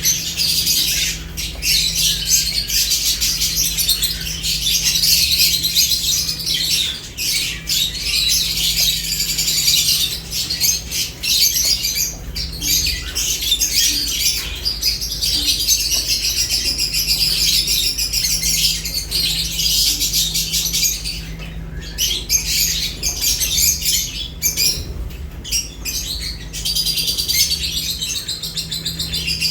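A group of lovebirds chattering constantly with dense, high-pitched chirps and squawks, mixed with frequent sharp clicks.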